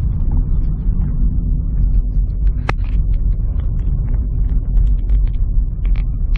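A car driving along, with a steady low rumble from the engine and road and one short click a little before the middle.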